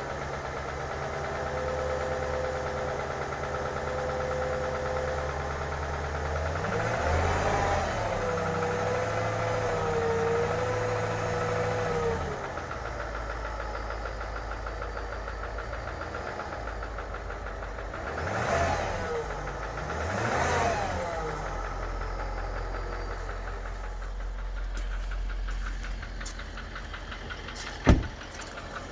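Range Rover Vogue L405 engine idling with a knock, which the owner locates on the upper right side of the engine. It is revved up and back down once, then twice more in quick succession later on. Near the end there is a single sharp, loud click.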